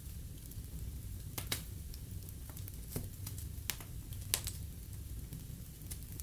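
Wood fire burning in a fireplace: a steady low rumble of flame with scattered sharp crackles and pops, the loudest a little past four seconds in.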